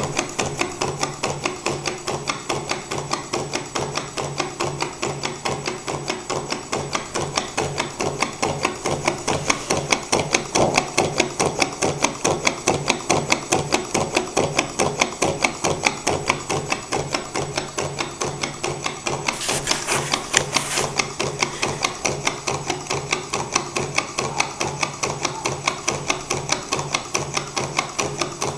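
Gamma-type V twin-cylinder Stirling engine running at a steady speed, its mechanism making a fast, even clatter of light knocks. A brief hiss comes in about two-thirds of the way through.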